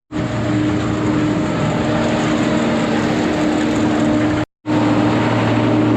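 Engine of farm machinery running steadily at a constant speed, a loud even drone, cut off for a moment about four and a half seconds in before resuming.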